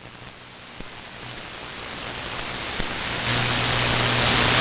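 Static hiss on an open two-way radio channel between transmissions, rising steadily in level; a low hum joins in a little past three seconds.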